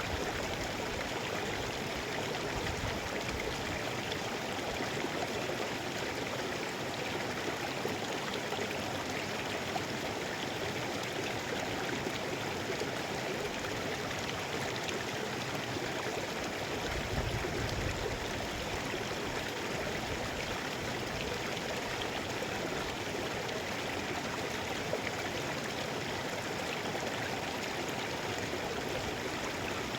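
Mountain river flowing with a steady rush of water. A brief low rumble comes a little past halfway.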